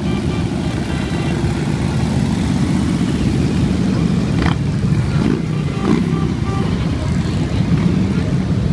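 Many motorcycle engines running together in a dense, steady low sound, as a stream of bikes rides past. A few short rising-and-falling tones cut through about halfway in.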